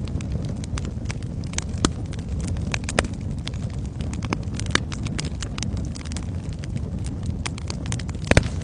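Wood fire burning in a fireplace: a steady low rumble of flames with irregular sharp crackles and pops, a loud cluster of pops near the end.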